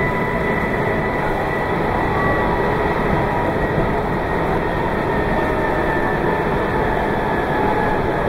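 Meitetsu 2200 series electric train running steadily at speed, a continuous even rumble and rush of noise with faint steady tones in it.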